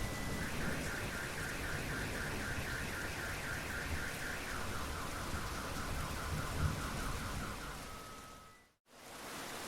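Steady rain falling, with a fast-pulsing electronic tone over it that steps down in pitch about halfway through. The sound cuts out for a moment near the end.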